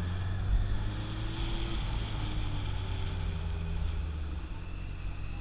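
Motorcycle engine and road noise while riding in traffic: a steady low engine note that drops a little about four seconds in.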